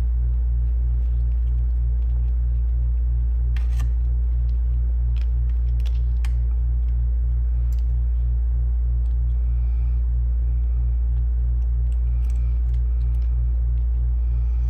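Steady low hum with a regular throb about three times a second, with a few faint clicks a few seconds in.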